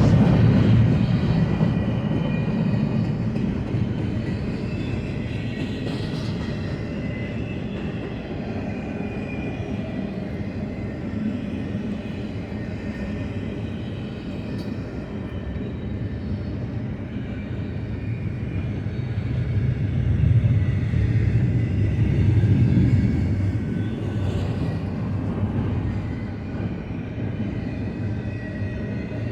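BNSF double-stack intermodal freight train rolling past, a steady rumble of wheels on rail that swells louder about 20 seconds in.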